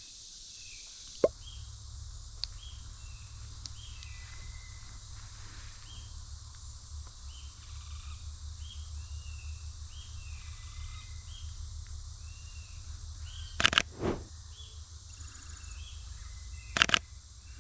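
Wild birds calling over and over in short, curved notes, about one a second, against a low rumble of wind or handling noise. A few sharp clicks stand out, about a second in and again near the end.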